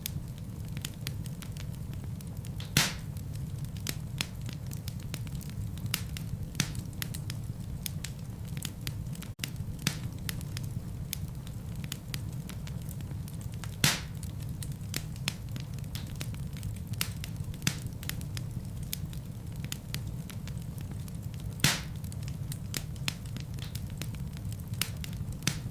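Wood fire burning in a fireplace: a steady low rumble of flames with frequent small crackles. Three louder pops are spread through it.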